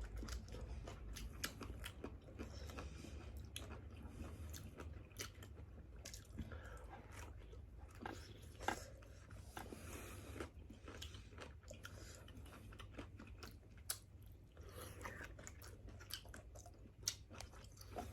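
People eating grilled seafood: chewing and biting, with scattered small crunches and clicks.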